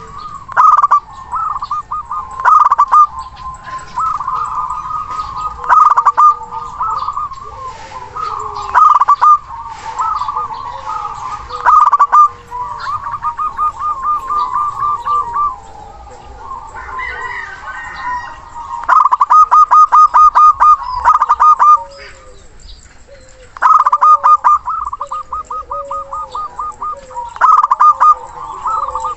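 Zebra dove (perkutut) cooing in repeated phrases, several of them quick runs of staccato pulsed notes, with short pauses between the calls.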